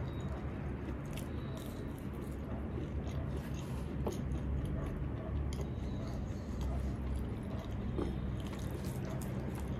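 Close-miked chewing of a person eating with her hand, biting into a batter-fried chilli fritter, with small clicks scattered through.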